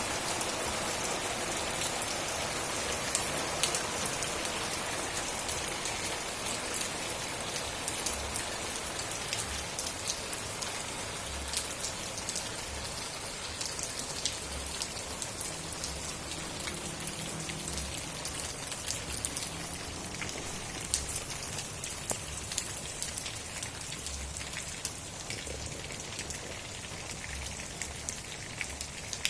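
Steady rain falling, with many individual drops ticking sharply over the steady hiss.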